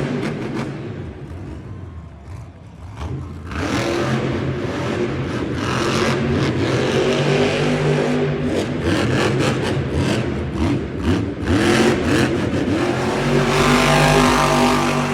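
Monster truck's supercharged V8 engine revving up and down hard during a freestyle run, easing briefly about two to three seconds in and loudest near the end, with bits of clatter.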